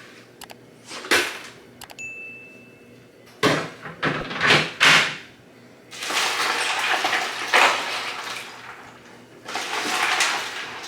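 Irregular knocks, scrapes and swishing noises of plastic tubs, a barrel lid and ice water being handled, with a short steady high beep about two seconds in.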